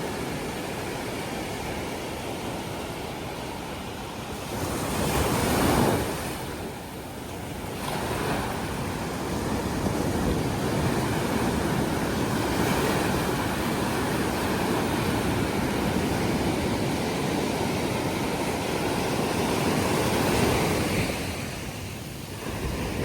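Gentle sea waves breaking and washing up a sandy beach, with two louder surges, about five seconds in and again about twenty seconds in.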